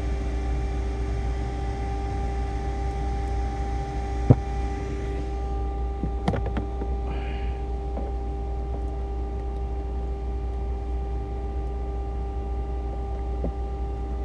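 Steady mechanical hum with a low rumble underneath, broken by a sharp click about four seconds in, a second click about two seconds later and a faint one near the end.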